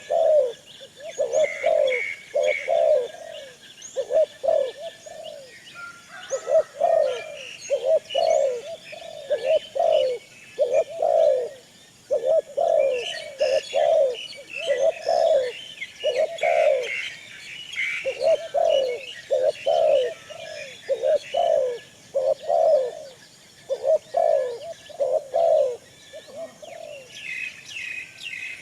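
Pigeons cooing over and over, short coos about two a second in long runs, with smaller birds chirping higher and fainter.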